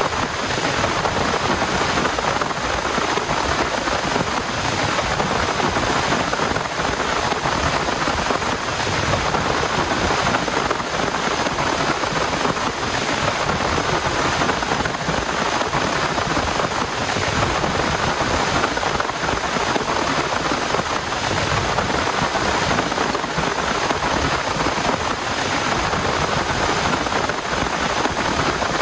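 Heavy rain falling steadily: a dense, even hiss with no breaks or distinct strikes.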